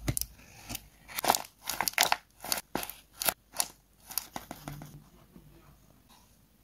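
Paper being worked by hand at close range: a run of short, crisp crackles, about three a second, that thin out and stop about four seconds in.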